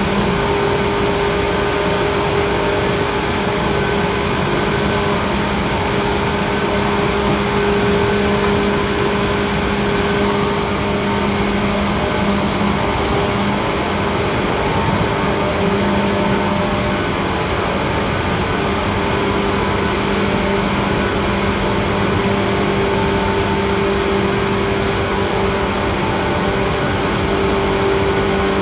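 JR 185 series electric multiple unit heard from inside a passenger car, running at a steady speed: a continuous rumble of wheels on rail with a steady low hum from the running gear.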